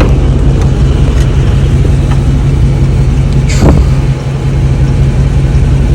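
Dodge Charger Scat Pack's 6.4-litre 392 Hemi V8 running at a steady idle with a low, even drone. One brief sharp sound a little past halfway.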